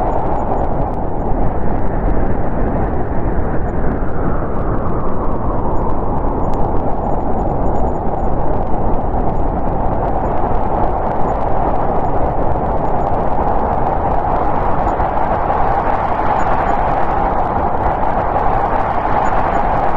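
Snowstorm wind blowing steadily and loudly, a continuous rushing noise that swells a little about four seconds in and again near the end.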